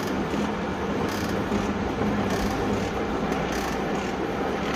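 Used metal shaper (mesin skrap, 500 mm stroke) running under power: a steady motor hum, with a brighter rushing clatter about once every second or so as the ram strokes back and forth.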